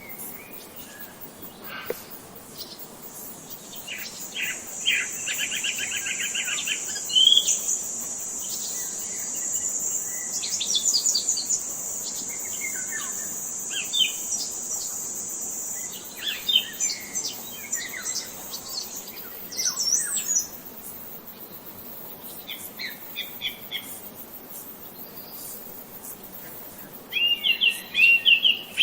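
Wild songbirds chirping and calling, with fast rattling trills and scattered short calls. A thin, steady high-pitched buzz runs underneath through the first two-thirds, and a louder burst of chirping starts near the end.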